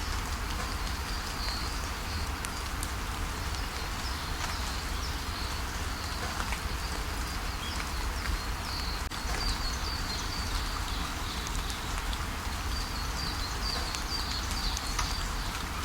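Steady rain falling, with small birds calling in short high chirps now and then and a quick run of chirps near the end. A low steady rumble lies underneath.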